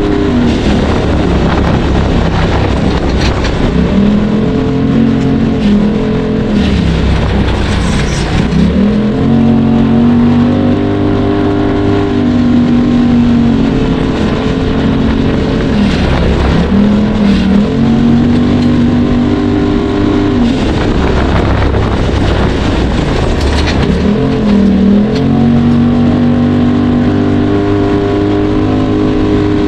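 Off-road vehicle engine working hard, its note climbing and then dropping sharply again every three to four seconds as it revs and eases off.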